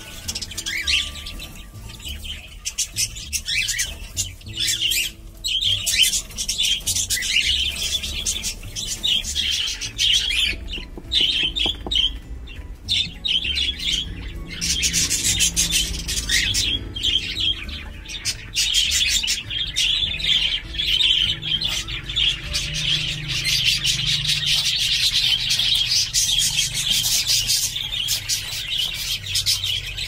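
Pet birds chirping and calling continuously, many calls overlapping, busier in the second half.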